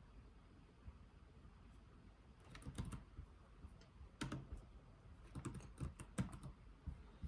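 Slow, soft typing on a computer keyboard: sparse keystrokes in small clusters, starting about two and a half seconds in after a quiet stretch.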